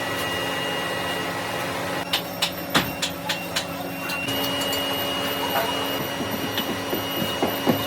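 Workshop machinery running with a steady hum, with a quick run of sharp metal knocks about two seconds in and lighter knocks near the end.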